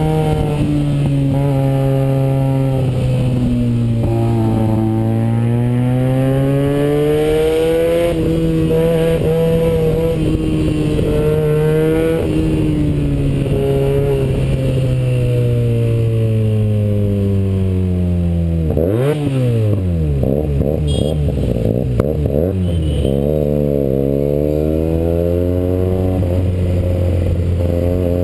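Benelli TNT 300 parallel-twin engine through an aftermarket IXIL exhaust with the baffles removed, under way: the engine pitch rises and falls repeatedly as the bike accelerates and shifts. About two-thirds through the pitch drops sharply, followed by several quick rev blips before it steadies again.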